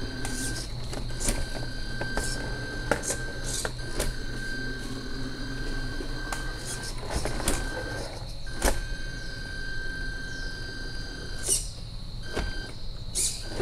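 1/14-scale RC Scania R470 model truck running: a steady high whine that drops out briefly now and then over a low steady hum, with scattered sharp clicks and knocks.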